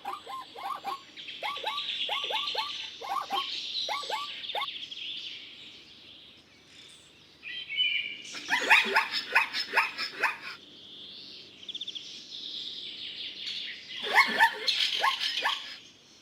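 Birds calling in quick series of short notes that drop in pitch, over steady higher chirping. The calls fade out about five seconds in and come back louder in bunches around eight seconds in and again near the end.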